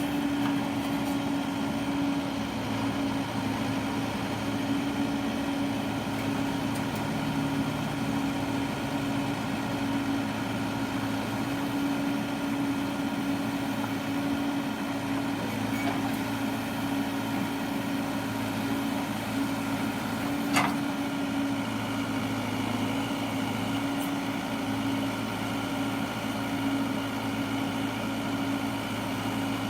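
A heavy earth-moving machine's engine running at a steady speed, with one sharp knock about two-thirds of the way through.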